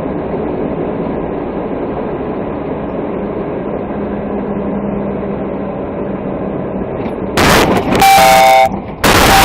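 Steady vehicle running and road noise picked up by a dash camera's microphone. Near the end it gives way to loud noise and a loud horn blast.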